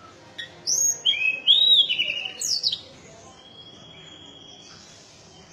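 A tledekan gunung songbird singing: a quick run of loud whistled notes with rising and falling glides over about two seconds, followed by a fainter held high note.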